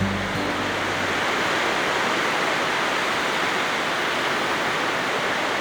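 Steady, even hiss of sea surf washing on a beach, with no distinct swells or single wave crashes.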